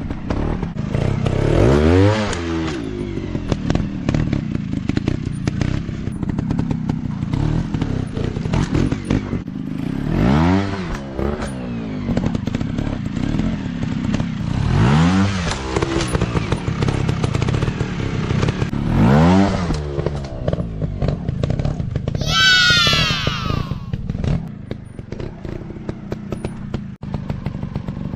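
Dirt bike engine running, blipped up and back down in four throttle swells with steady running between them, plus scattered clattering. Near the end comes a brief high-pitched falling whine.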